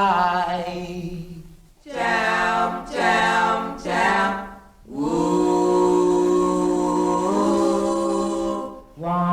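Doo-wop vocal group singing close harmony: a held chord fades, two short chords follow, then a long held chord that shifts pitch partway through and breaks off near the end.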